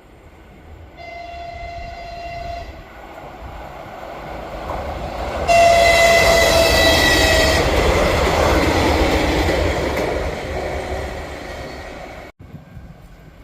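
České dráhy train passing: a short horn blast about a second in, then a louder horn blast a few seconds later that drops slightly in pitch as the train draws level. The train's running noise swells and fades, and the sound cuts off abruptly near the end.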